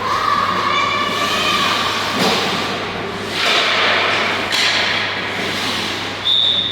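Game noise during a youth team scrimmage: repeated harsh scraping surges and thumps over a steady low hum, with faint distant calls, and a short high whistle blast near the end.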